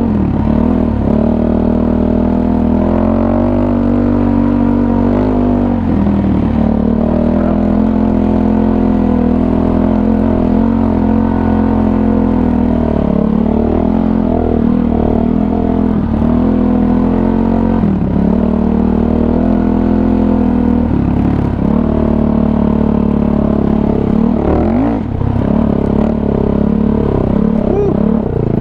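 Kawasaki KFX450R ATV's single-cylinder four-stroke engine running at a steady, moderate throttle while riding, easing off and picking up again a few times.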